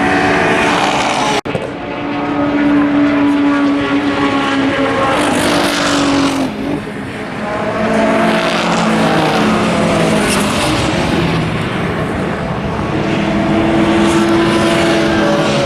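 Race cars accelerating through a corner and passing at speed, one after another, each engine note rising and falling as it goes by. The sound cuts out sharply for an instant about a second and a half in.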